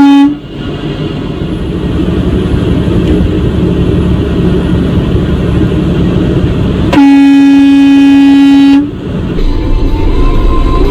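Vehicle horn sounding one steady note: a brief blast at the start, then a long blast of about two seconds roughly seven seconds in, over steady road and engine rumble.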